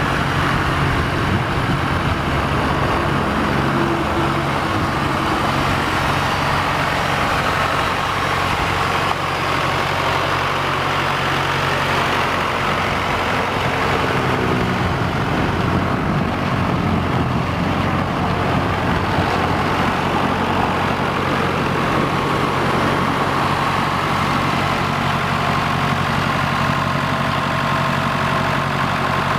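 Massey Ferguson 265's four-cylinder Perkins diesel engine running steadily at idle, with a brief shift in engine pitch about halfway through.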